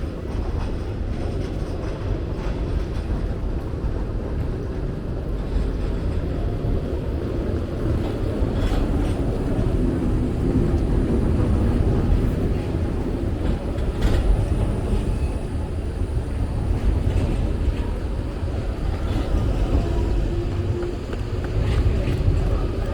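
A train or tram rumbling past on the rails, with a few sharp wheel clacks, over steady rain noise.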